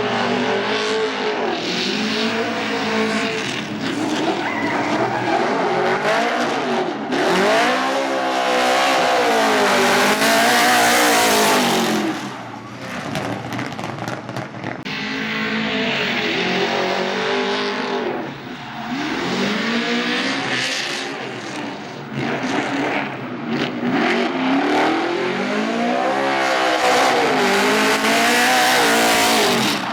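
Dodge-engined Holden Commodore drift car at full throttle, the engine pitch repeatedly climbing and falling as it is revved through the slides. Tyres squeal and screech over it, loudest in two long stretches, one near the middle and one near the end.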